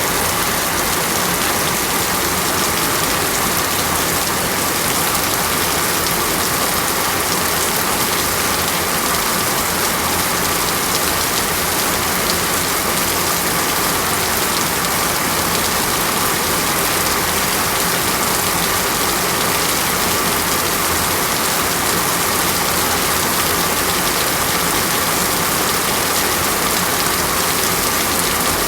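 Heavy rain falling steadily, an even dense hiss of drops.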